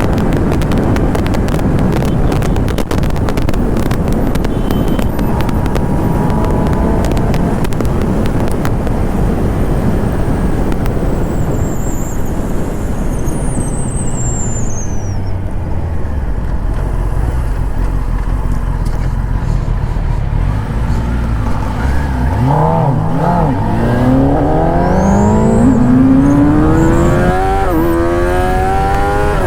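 A 1000cc inline-four superbike at speed, with heavy wind rush over the engine for the first half. The engine then settles low. About two-thirds through it revs up hard, its pitch climbing steadily, with a quick upshift near the end before it climbs again.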